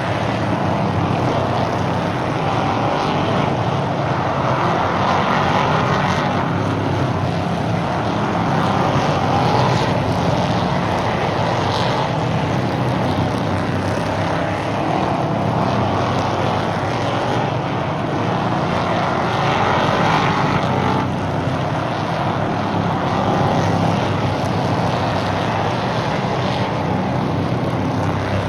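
Stock cars racing on a short oval, their engines running hard at speed, the drone swelling and fading every few seconds as cars pass.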